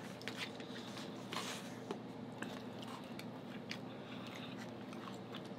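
Quiet eating sounds close to the microphone: chewing and wet mouth noises with scattered small clicks, as sausage and rice are eaten with a fork.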